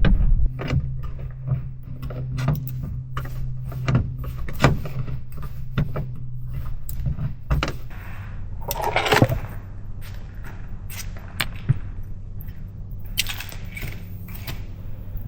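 Clicks, clinks and light knocks from handling camp cooking gear, over a steady low hum, with a longer rustling hiss about nine seconds in.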